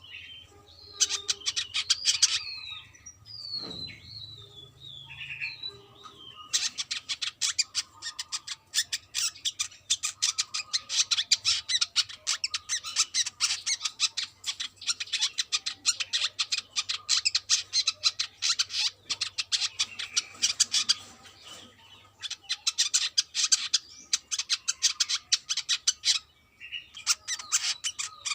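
Brown-throated sunbird singing. A few short, sliding whistled notes in the first seconds give way to a long, very rapid chatter of sharp notes lasting about fifteen seconds, with more short bursts near the end.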